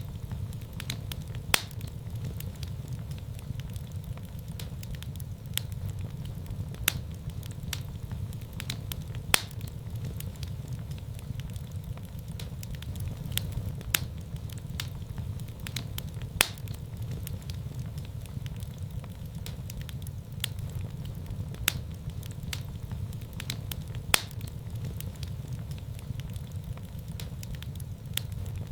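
Wood fire burning in a fireplace: a steady low rumble of the flames with irregular sharp crackles and pops, a dozen or so standing out clearly.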